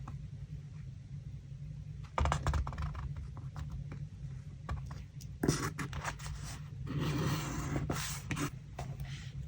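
Paper and craft materials being handled and scraped on a desk, in three short spells of crinkling, scratching and light taps about two, five and a half and seven seconds in, over a steady low hum.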